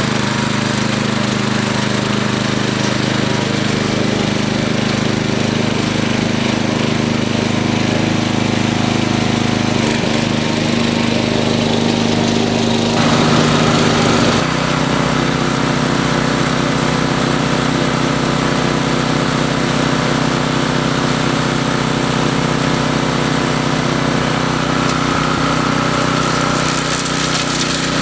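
DR brush mower's 10.5 hp Briggs & Stratton I/C single-cylinder engine running steadily. Its pitch shifts about ten seconds in and again a few seconds later.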